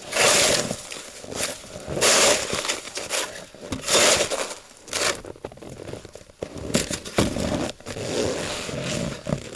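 Snow shovel scraping and pushing snow off a roof in repeated crunching strokes, roughly one every two seconds.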